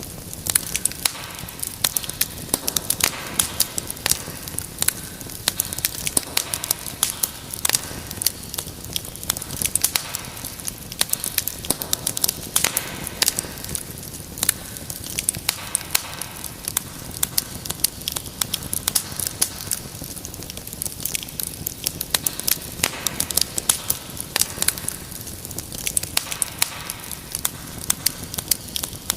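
Wood fire burning in a fireplace, with dense, irregular crackling and popping over a steady hiss.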